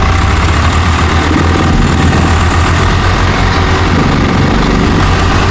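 Heavy diesel engine running steadily and loud, with a deep, continuous rumble.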